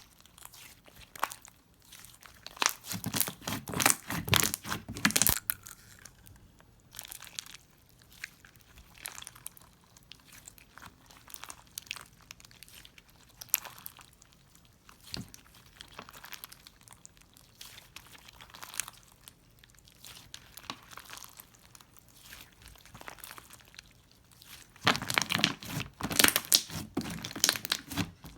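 Slime being squeezed and stretched by hand, giving off scattered crackling clicks and small pops. There are two louder spells of dense crackling, about three seconds in and near the end.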